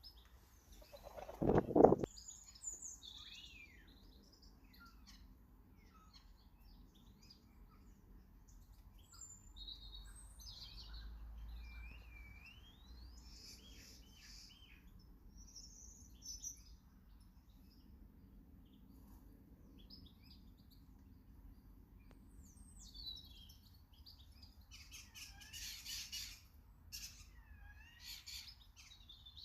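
Small garden birds chirping and calling in short high-pitched notes and glides, busiest near the end with a run of rapid chirps. About two seconds in, a brief loud noise lower in pitch than the calls stands out as the loudest sound.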